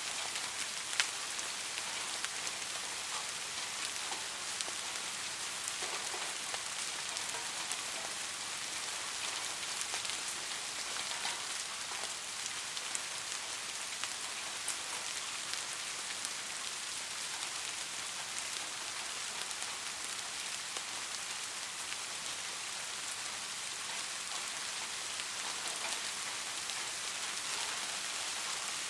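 Steady rain falling, a dense even hiss with many small drops ticking, and a few louder single drops striking close by.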